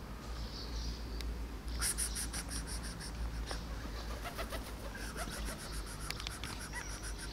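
A bird calling in two quick runs of high chirps, about nine a second: a short run near two seconds in and a longer one from about five seconds in.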